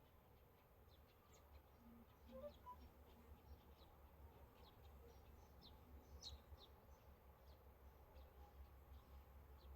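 Faint birds chirping: many short, high chirps scattered throughout, over a low steady hum.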